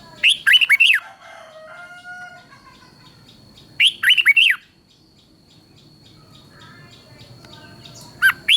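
Red-whiskered bulbul singing: three short, loud phrases of quick swooping whistled notes, about four seconds apart. A steady thin high tone and fainter calls sound in between.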